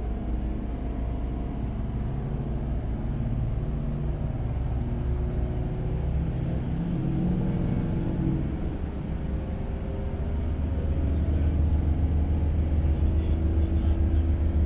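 Motorboat engine running at a steady cruise, about 75% throttle, held back because it is running hot. A low drone that gets louder about ten seconds in.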